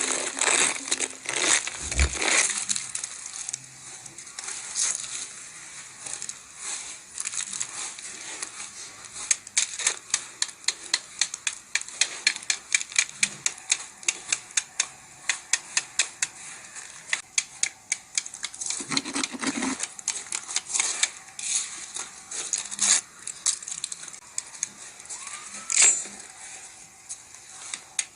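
Freezing rain ticking on hard, icy surfaces: a dense, irregular patter of sharp little clicks, with a couple of louder knocks along the way.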